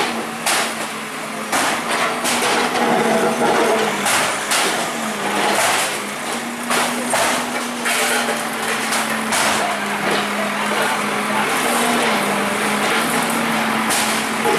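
Bulldozer engine running with a steady drone that shifts up and down a little in pitch, under repeated irregular knocks and crashes of building debris being broken and pushed during demolition.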